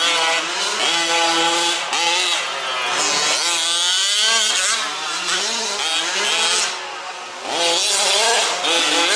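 Several 1/5-scale petrol RC off-road trucks racing, their small two-stroke engines revving up and down in overlapping rising and falling whines. The engine noise eases briefly about seven seconds in, then picks up again.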